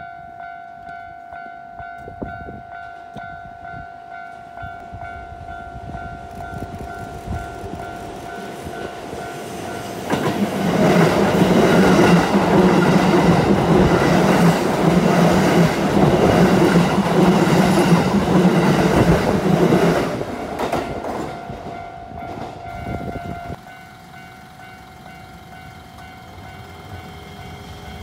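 Japanese level-crossing alarm ringing steadily while a Keisei electric train passes over the curve, its wheels running loud over the rails for about ten seconds in the middle. The crossing alarm cuts off a few seconds after the train has gone by.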